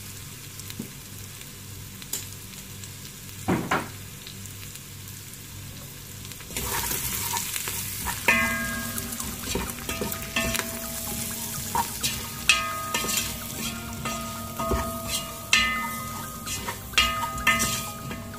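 Chicken pieces sizzling in a pot with curry powder. The sizzle grows louder about six and a half seconds in as they are stirred, with the utensil knocking and scraping against the pot many times.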